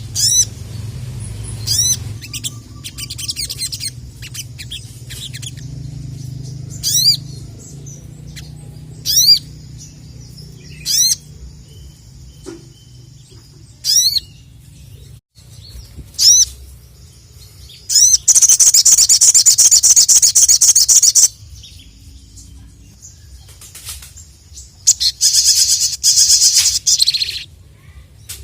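Ruby-cheeked sunbird (sogok ontong) calling: sharp single high notes every second or two, then two rapid trilled song bursts of about three seconds each, the loudest sounds, about two thirds of the way in and near the end. A faint low hum runs underneath.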